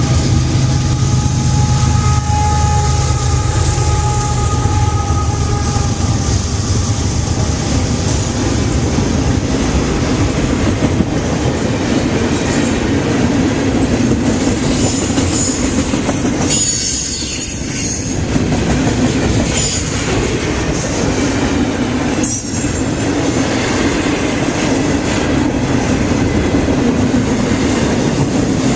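Canadian Pacific freight train passing. The locomotives' diesel drone and a high steady tone fade over the first few seconds. Then the freight cars roll by with a steady rumble of wheels on rail and a few sharp clanks.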